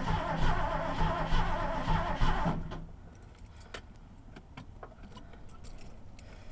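1980 Ford F100's 302 V8 being cranked by its starter without catching, in extreme cold, after the owner has said he probably flooded it; the cranking stops about two and a half seconds in. Light clicking follows.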